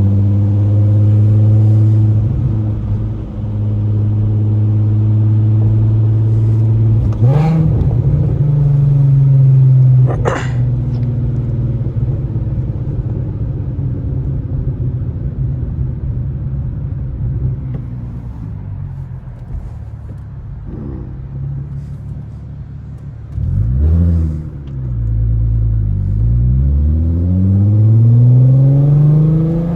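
Exhaust of a Mk4 Jetta GLI's 24-valve VR6, rear muffler deleted with the stock resonator and cat, droning under way. The engine note holds, drops through the middle, blips near the end and then climbs again as the car accelerates, with two brief whooshes early on.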